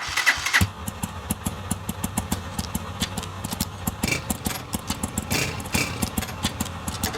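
Several small delivery motorbikes starting up together, then their engines running at idle with a steady, ticking rumble.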